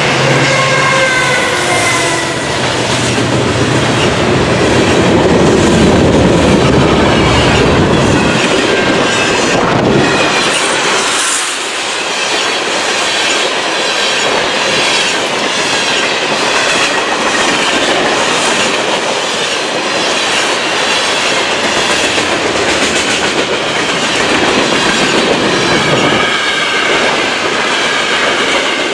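Freight cars of a CN train rolling past close by: a steady clatter of wheels over the rail joints, with high wavering wheel squeal. The deep rumble underneath drops away about eleven seconds in.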